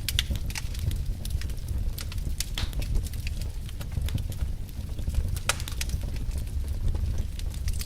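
Wood fire burning logs: a steady low rumble of flame with sharp, irregular crackles and pops of the burning wood.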